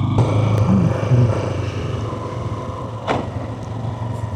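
Honda CRF300 single-cylinder motorcycle engine running steadily at low speed, with one sharp click about three seconds in.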